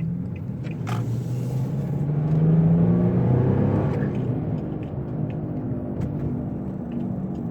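Humming noise of a bad driver's-side wheel bearing on an Infiniti G35, heard from inside the car during a right turn, over the road noise. It swells to its loudest about two to three seconds in, then eases. The hum is a sign that the bearing is worn and due for replacement.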